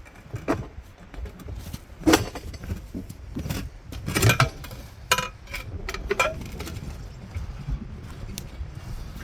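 Metal clinks and clanks: a string of sharp knocks at uneven spacing, the loudest around the middle, a few ringing briefly like struck metal, over a low background rumble.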